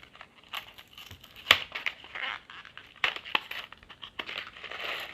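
Smarties candy package being handled and opened: crinkling and rustling with a run of sharp clicks, the loudest about a second and a half in.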